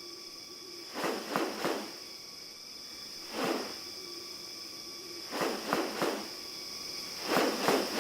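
Steady high-pitched drone of rainforest insects, with short harsh rustling bursts coming singly or in quick runs of two to five.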